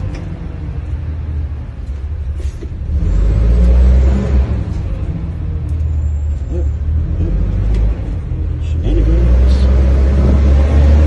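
Engine running with a deep rumble, revving up about three seconds in and again later on.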